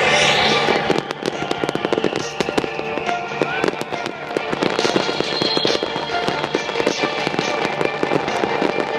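Aerial fireworks going off: a loud burst at the start, then dense rapid crackling, with music playing alongside.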